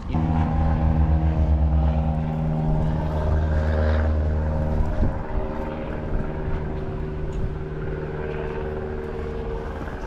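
Car engine idling at a steady pitch, a low even hum; it is louder for the first five seconds, then carries on a little quieter.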